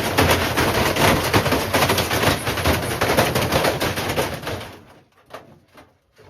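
Bricks hammering rapidly inside a spinning Samsung washing machine drum, a fast continuous clatter of impacts. About four and a half seconds in it winds down to a few separate knocks and stops.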